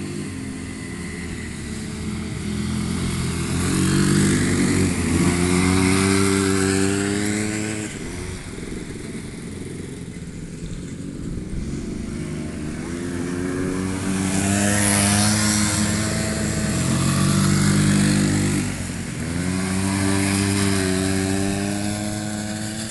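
Small ATV engine revving up and easing off repeatedly as it passes close by, louder when it comes near; the pitch climbs around 4 s, 14 s and 19 s and drops in between.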